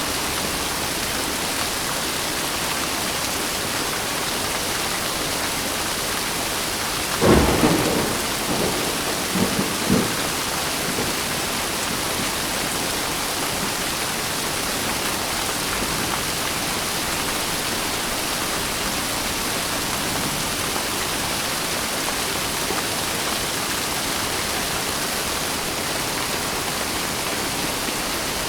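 Steady heavy rain, with a clap of thunder about seven seconds in that rumbles on in a few smaller peals for about three seconds.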